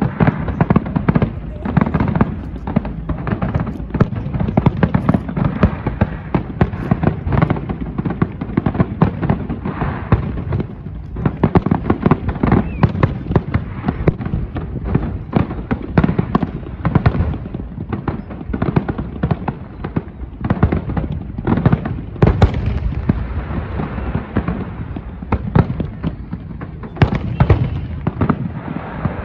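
Fireworks display: a dense, rapid run of shell bursts and crackling bangs with deeper booms.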